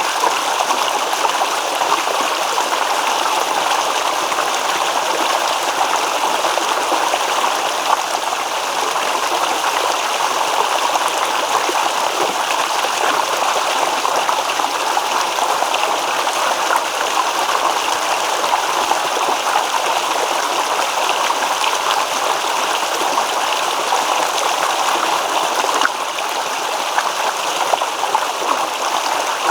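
Small stream babbling over stones: steady rushing and trickling water.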